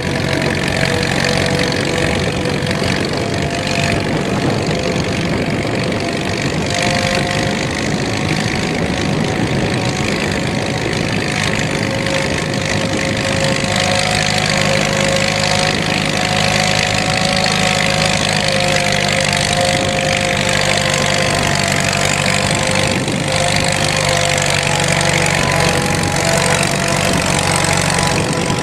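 1926 Fordson tractor's kerosene-burning four-cylinder engine running steadily under load while plowing, with the growling of its worm drive transmission, a normal characteristic of a Fordson.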